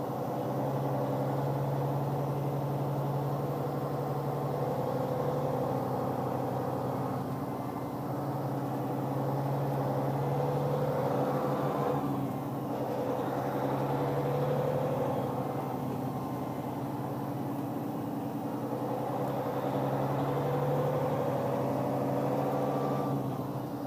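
A vehicle engine running steadily at low speed, its low drone swelling and easing slightly every few seconds.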